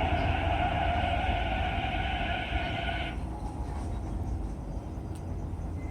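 MTR East Rail Line R-train electric multiple unit at the station, a steady low rumble under a steady mechanical whine. The whine cuts off suddenly about three seconds in, leaving the rumble.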